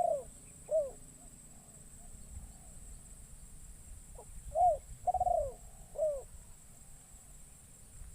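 Spotted dove (terkukur) cooing: the last notes of one phrase right at the start, then a full three-note coo about four and a half seconds in, its middle note the longest. This is the decoy's luring call.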